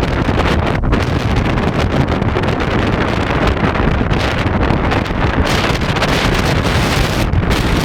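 Strong mountain wind blowing across the microphone, a dense, low-heavy buffeting with a hissier gust about five and a half to seven seconds in.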